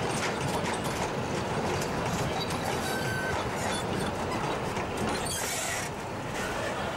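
Narrow-gauge train's open wagons and guard's van rolling past, wheels clicking over the rail joints with a brief squeal about three seconds in. A short hiss comes about five and a half seconds in, and the rolling noise drops a little as the last van passes.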